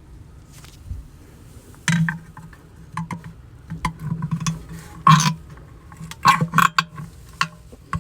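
Flathead screwdriver clicking and scraping against a metal C-clip as the clip is levered into its groove on a plastic lid assembly. There are several separate sharp clinks, the loudest about five seconds in, then two close together near 6.5 s.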